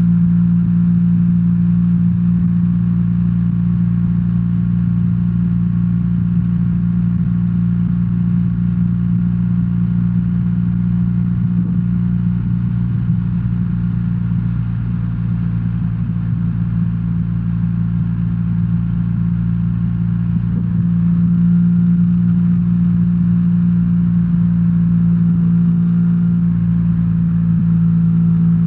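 BMW R1300R's boxer twin engine running at a steady engine speed, slightly quieter for a few seconds midway before picking up again.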